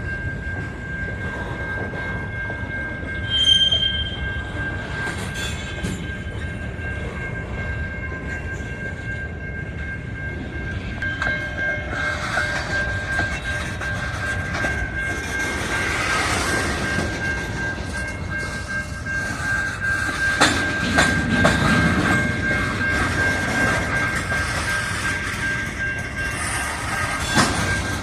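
A train rolling past with a steady rumble, its wheels knocking over rail joints now and then, loudest about three quarters of the way through. A steady high-pitched tone rings through the whole time.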